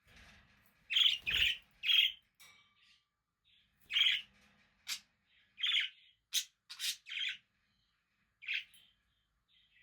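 Budgerigars chirping: about ten short, separate chirps, some in quick pairs, with gaps of a second or more between groups.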